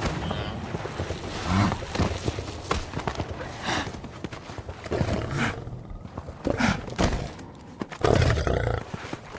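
Lions growling and African buffalo bellowing in a series of short, rough calls every second or so, over a steady rushing background.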